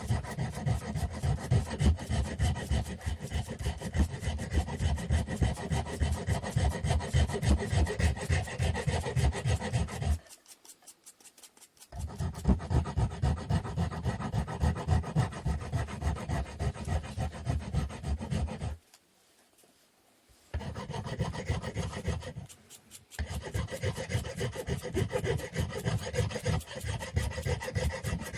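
Wood being sanded by hand with quick back-and-forth rubbing strokes. The strokes stop three times: twice for a couple of seconds each, about a third and two-thirds of the way in, and once briefly soon after the second stop.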